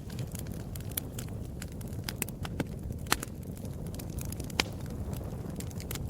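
Wood fire crackling in a fireplace: irregular sharp pops and snaps over a steady low rumble, with two louder pops about three and four and a half seconds in.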